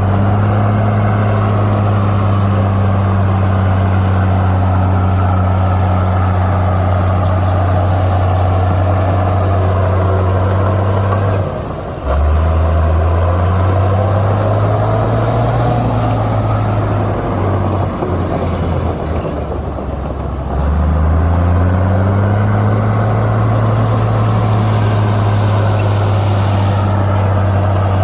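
Heavy earthmoving machine's diesel engine running at steady high revs. About twelve seconds in, the revs drop sharply, rise and fall for several seconds, and climb back to the steady pitch about twenty-one seconds in.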